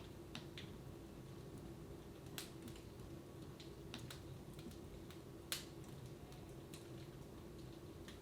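Wood fire in a fireplace crackling faintly, with scattered irregular pops, the loudest about two and a half and five and a half seconds in, over a steady low hum.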